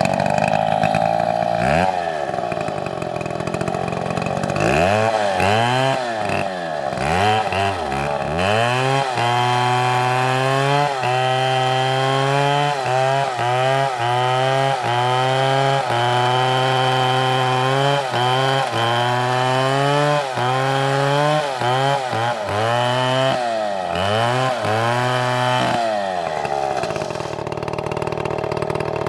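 STIHL chainsaw cutting wood at high throttle, its engine pitch dipping and recovering again and again as the chain loads up in the cut. Near the end it settles to a steadier, lower note.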